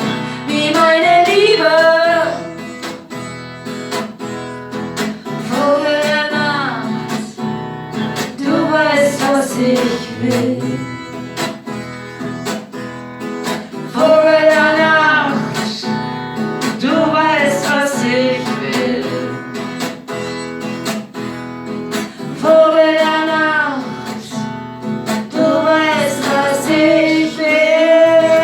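Song with female singing over acoustic guitar accompaniment; the sung lines are held and swell in phrases of a few seconds each.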